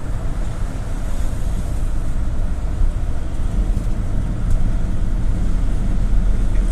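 Interior noise of a GAZ-A68R52 Gazelle City minibus on the move: a steady rumble of engine and road, heaviest in the low end, growing slightly louder toward the end.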